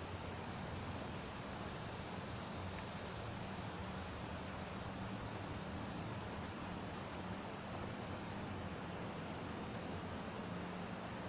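Insects droning, a steady high-pitched trill, with a short falling chirp repeating about every two seconds over a steady even hiss.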